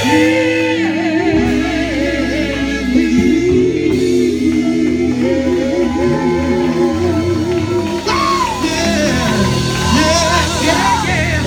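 Live gospel singing over a band with guitar: a vocalist draws out long, wavering notes without words, over steady low backing.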